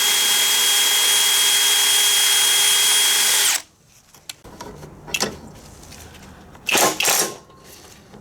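A power tool runs at a steady high whine for about three and a half seconds, then cuts off and winds down. After that come quieter handling sounds and a few sharp knocks near the end.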